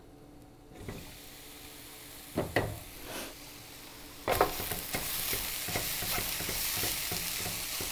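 A short knock or two as the pan's lid comes off, then from about four seconds shredded Brussels sprouts sizzling in oil in the pan while a wooden spatula stirs them.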